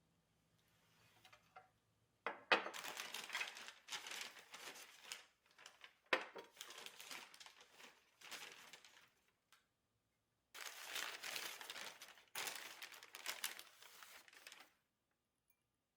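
Crinkling and rustling of something handled by hand, in three stretches of a few seconds each with short quiet gaps between.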